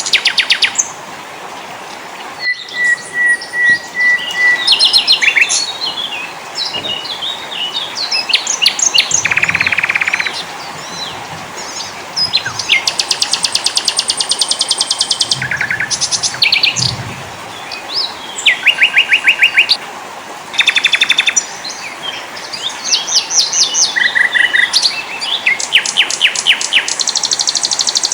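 Several small songbirds singing one after another: fast rattling trills, runs of quick high chirps, a string of even repeated notes and short whistles, over a steady background hiss.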